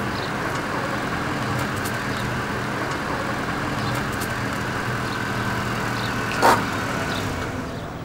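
Engine of an old Paykan sedan running steadily as the car drives up and comes to a stop, with one short loud knock about six and a half seconds in.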